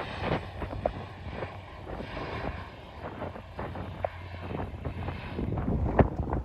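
Wind buffeting the microphone over distant airport aircraft noise, with a few short clicks.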